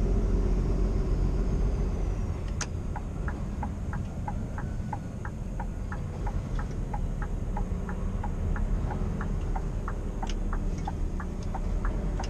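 Steady low running of a 2016 Scania R490 truck's engine heard from the cab. From about two and a half seconds in, the turn-signal indicator ticks in an even, alternating tick-tock, about three clicks a second.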